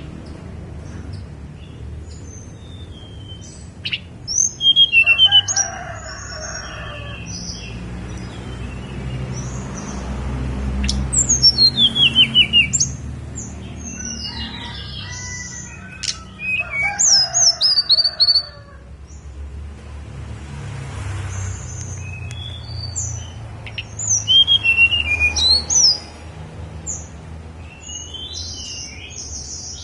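Tledekan gunung songbird singing: loud bursts of quick, high, sweeping notes, four times, with single chirps in the pauses between.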